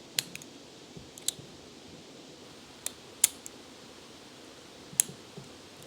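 Sharp clicks of a new aftermarket chainsaw carburetor's choke and throttle linkage being worked by hand: about five separate snaps a second or so apart, the loudest near the middle and near the end.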